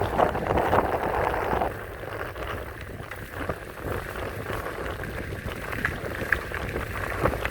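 Wind blowing over the microphone with a low rumble from an e-bike's tyres on the road, louder in the first second and a half, with a few light clicks.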